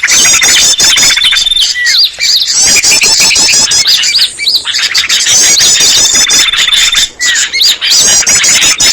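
Bird-lure recording of many small songbirds calling at once: dense overlapping chirps and fast repeated high notes over a long steady high trill, with no break.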